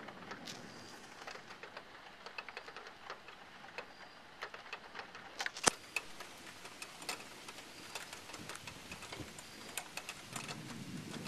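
Severe thunderstorm rain: drops tapping close by in irregular ticks, with one sharp, much louder click about five and a half seconds in. A low rush of wind rises near the start and again near the end.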